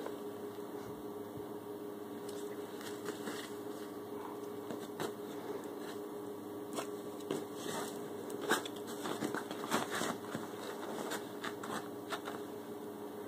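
A steady hum from a running appliance or fan, with scattered faint clicks and small rustles throughout.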